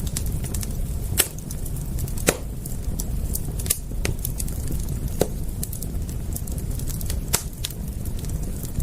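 Wood fire crackling, with a scatter of fine crackles and about five sharper pops over a steady low rumble.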